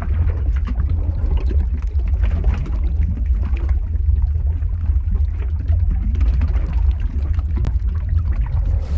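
Lava ambience sound effect: a constant deep rumble with irregular gurgling and popping over it.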